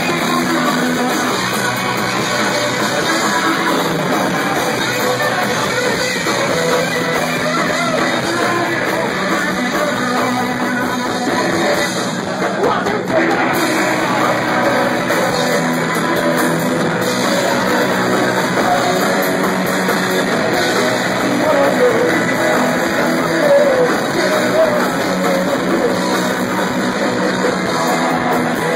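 Live punk rock band playing loud distorted electric guitars over bass and drums, recorded from the crowd.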